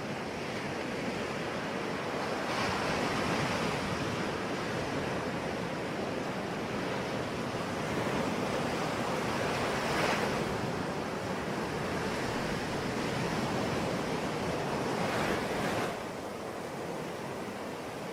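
Sea waves washing onto a shore: a continuous rush that swells every few seconds as each wave breaks, then drops off suddenly near the end.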